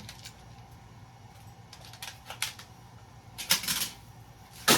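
Scattered clicks and short rattles of small metal and plastic parts being handled while circuit breakers are pulled apart, with a cluster about three and a half seconds in and a sharp click near the end.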